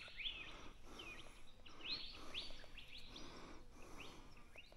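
Faint birdsong: many short sweeping chirps from several birds, a few each second, over quiet outdoor hiss.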